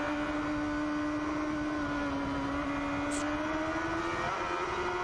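Sport bike engine held at steady high revs on the move, under a rush of wind noise. The pitch sags a little partway through, then climbs slowly toward the end.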